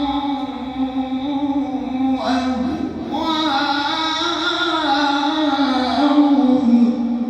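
A man's voice chanting Quran recitation in a slow, melodic style, holding long, ornamented notes that waver in pitch. There is a short break about two seconds in, then the line carries on a little higher.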